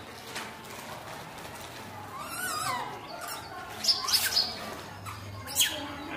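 Birds calling: a few short, sliding chirps and whistles, the sharpest bunched about four seconds in.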